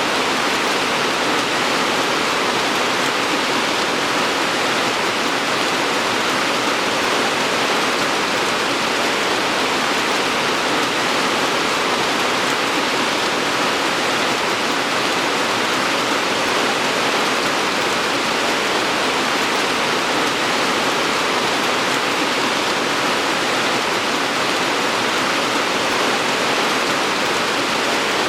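Steady, even rain falling, a dense hiss with no distinct drops or changes.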